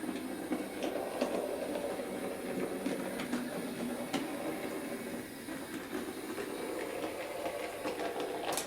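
Bachmann OO gauge Class 03 shunter model running at a slow speed, its small electric motor giving a steady whir, with occasional light clicks from the wheels over rail joints and points.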